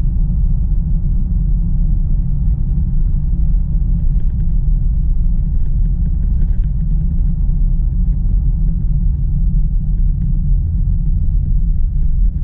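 Steady low rumble of road and tyre noise inside an electric car's cabin while driving on rain-wet pavement, with no engine note.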